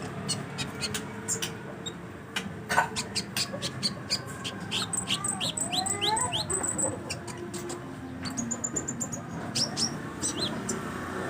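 Red-breasted sunbird singing: a rapid run of thin, high chirps and quick sliding notes, with a couple of short held whistles, over a low steady background hum.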